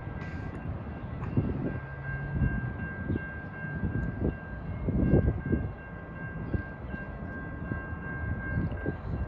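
A distant Metra commuter train approaching: a low rumble with a thin, steady high-pitched tone over it, and uneven gusts of wind buffeting the microphone.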